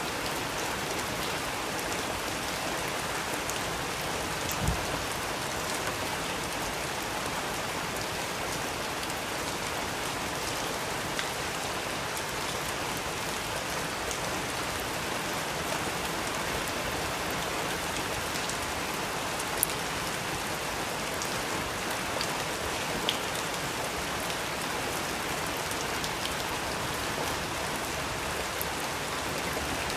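Steady rain falling in a dense, even patter, with a few sharper single ticks standing out now and then.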